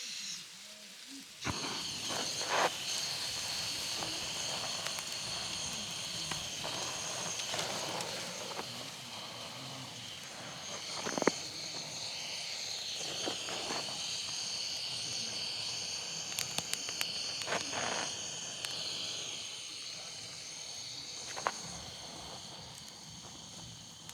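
Wood campfire crackling, with sharp pops every few seconds over a steady high-pitched hiss.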